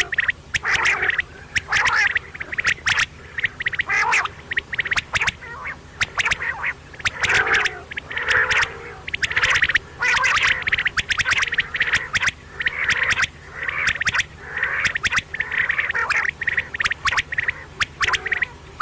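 Quail calling over and over in short harsh bursts, about one or two a second, with sharp clicks between the calls.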